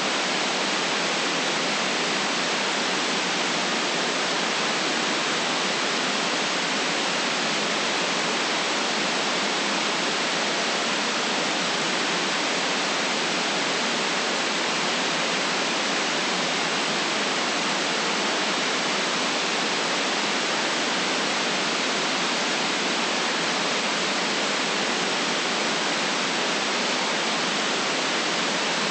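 Steady white noise: an even, unchanging hiss with no bass, holding the same level throughout.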